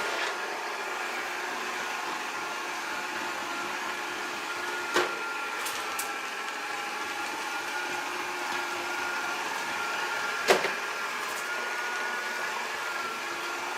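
Proscenic 820S robot vacuum running, its suction motor giving a steady whir with a thin whine. Two sharp knocks come through, about five seconds in and, louder, about ten and a half seconds in.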